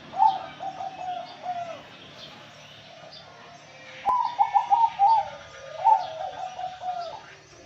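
Male zebra dove (perkutut) singing: three phrases of rapid, stuttering coos, each about a second long, the second starting about four seconds in. Faint high chirps of other small birds sound behind.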